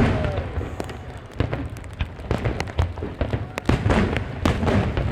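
Aerial fireworks bursting in quick succession: a busy stream of sharp bangs and crackles with low booms underneath.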